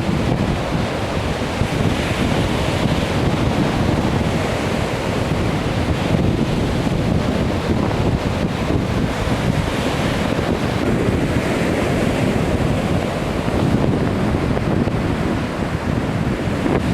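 Wind buffeting the camera microphone: a steady rushing noise, heaviest in the low rumble, with no distinct events.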